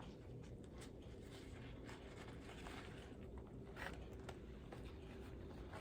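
Faint rustling of a sterile paper drape being handled and laid out, with scattered light clicks and crinkles. One is a little louder about four seconds in.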